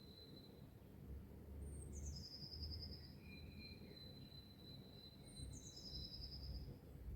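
Faint birdsong: a small songbird repeats a short, high phrase that steps down into a fast trill, twice, with other lower chirps between. A thin steady high tone and a soft low rumble run underneath.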